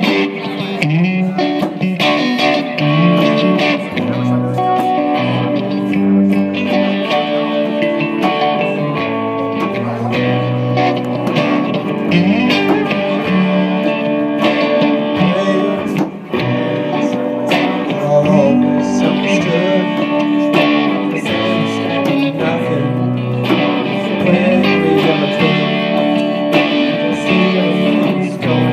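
Live band music led by guitar, played steadily and continuously.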